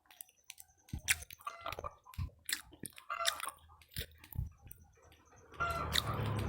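Close-up chewing and crunching of fried gorengan snacks, with irregular crunches and mouth clicks. Near the end a steady low hum comes in and becomes the loudest sound.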